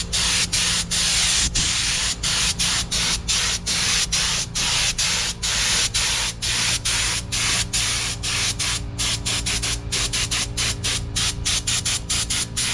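Paint spray gun hissing as paint is sprayed on, the trigger pulled in quick strokes so the hiss breaks off briefly several times a second, over a steady low hum.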